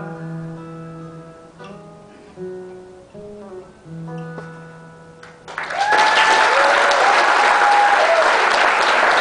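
Guitar plays a few soft closing notes that ring and die away. About five and a half seconds in, the audience breaks into loud applause with a few whoops.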